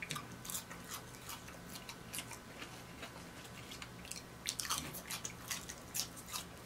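Close-miked mouth sounds of eating seasoned fries: steady chewing with many short wet clicks and smacks, busiest in the second before the next fry goes into the mouth.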